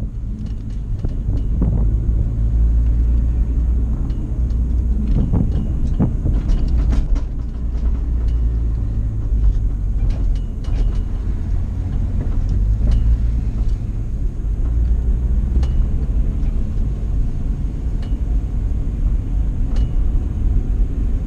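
Nissan Skyline R34 GT-T's turbocharged RB25DET straight-six running at low revs as the car rolls slowly, heard from inside the cabin as a steady low rumble. Scattered light clicks and knocks sound over it.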